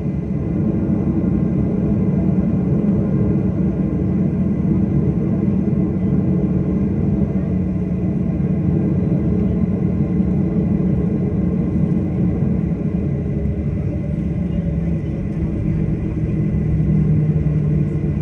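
Steady rumble of a jet airliner's running engines heard from inside the cabin, with a low hum that drops a little in pitch about three-quarters of the way in.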